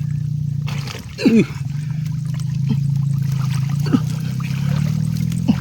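Water trickling and sloshing as hands grope for fish in waist-deep water, over a steady low hum.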